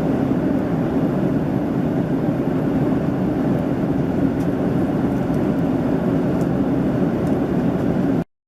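Steady cabin noise of a Boeing 767-300ER in flight, the even hum of engines and airflow heard from a seat inside the cabin. It cuts off suddenly near the end.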